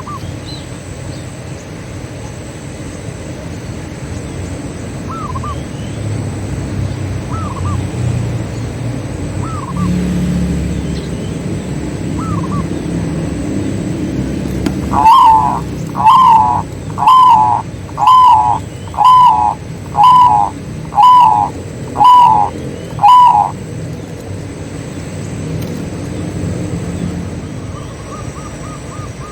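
Zebra doves (perkutut) calling: faint coos from farther off every few seconds, then about halfway through one bird close by gives a loud run of nine coos, about one a second. A low background rumble runs underneath.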